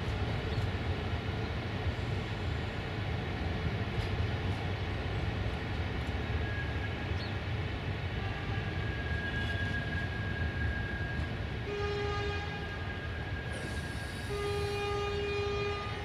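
060-EA1 electric locomotive and its train running through the station with a steady low rumble and a steady high whine that sets in partway through. Near the end the horn sounds twice, a short blast and then a longer one.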